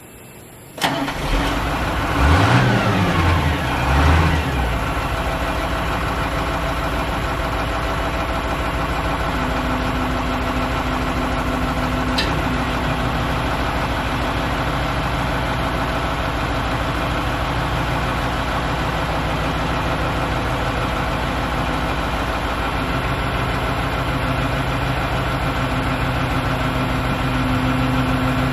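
Dump truck's diesel engine starting about a second in, rising and falling in pitch twice as it revs and settles, then idling steadily.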